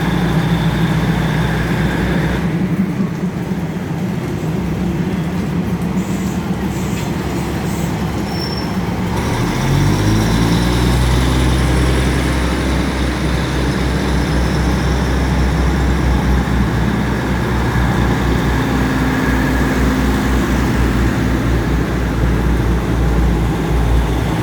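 Diesel train engine running at the station: a steady low drone, then about ten seconds in the engine pitch rises as it throttles up and settles into a louder, steady low running sound.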